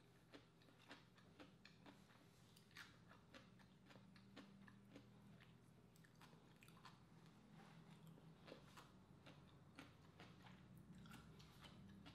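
Faint, close-up chewing and biting of crisp vinegar-and-salt cucumber slices: irregular soft crunches, a couple a second, over a steady low hum.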